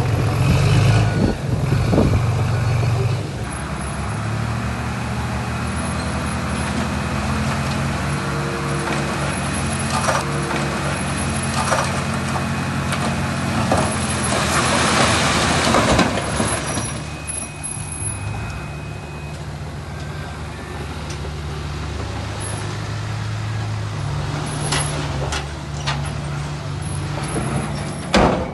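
Heavy diesel earthmoving machinery running and working, the engine drone shifting in pitch as it loads up. A loud rushing burst about halfway through.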